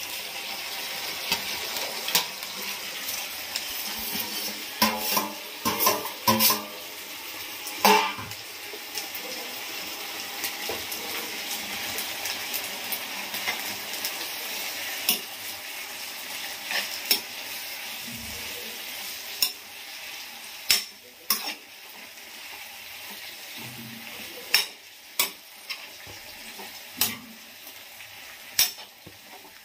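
Tomatoes, curry leaves and coriander sizzling in oil in a kadai while a metal spoon stirs them, clinking and scraping against the pan again and again. The sizzle is a steady hiss that grows fainter after about 20 seconds.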